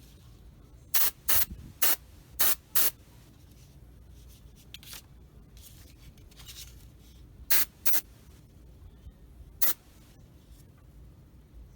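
Airbrush spraying Stynylrez primer in eight short hissing bursts: five in quick succession about a second in, two more a little past the middle, and one near the end.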